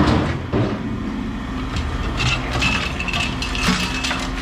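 A sharp metal knock at the start, then a steady low engine hum with a few light clinks, as scrap metal is handled at a scrapyard scale.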